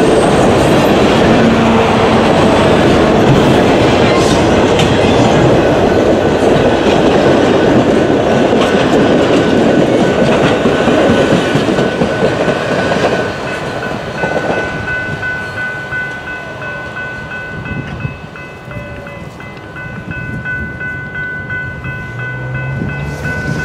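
Canadian Pacific Holiday Train rolling past close by, with steady wheel-on-rail rumble and clickety-clack over the rail joints. About 13 seconds in, the noise drops off as the end of the train passes and it moves away. A level-crossing bell keeps ringing steadily.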